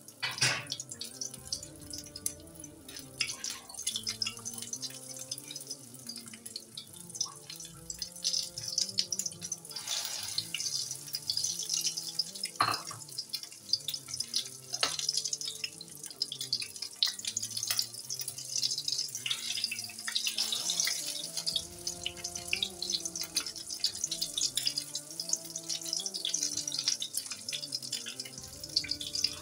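Egg-coated potato tikki patties sizzling and crackling in hot oil in a frying pan, with faint music underneath.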